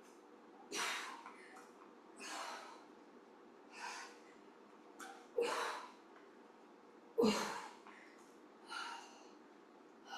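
A woman's hard exertion breathing during squat-and-overhead-press reps with weights: short, forceful puffs of breath about every one and a half seconds, two of them sharper and louder midway.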